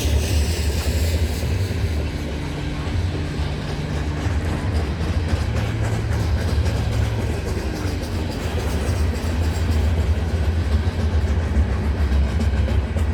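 CN freight train cars rolling past: a steady, loud low rumble of steel wheels on rail with a run of quick clicks from the wheels.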